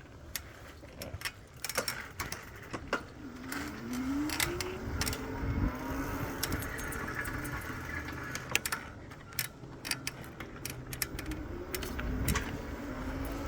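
An e-bike's electric motor whines up in pitch as the bike gets going, twice: about a third of the way in and again near the end. Scattered clicks and rattles from the bike run throughout.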